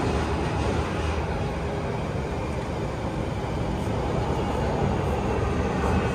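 Toei 6500 series electric train running on rails: a steady rumble of wheels and track.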